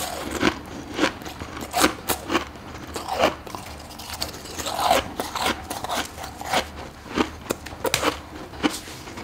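A person biting into frozen humidifier frost built up in a deep freezer, making crisp, crunchy bites. About a dozen sharp crunches come at an uneven pace of roughly one a second.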